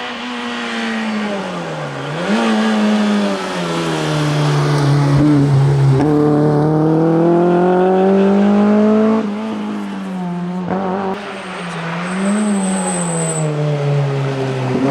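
Rally car engine on a tarmac stage, driven hard: it lifts off about two seconds in, then pulls with a rising pitch and grows louder until a lift about nine seconds in, and lifts and picks up again briefly near the end.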